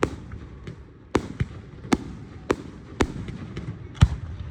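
Fireworks going off: a string of sharp bangs at irregular intervals, roughly half a second to a second apart, the loudest about four seconds in, over a steady low rumble.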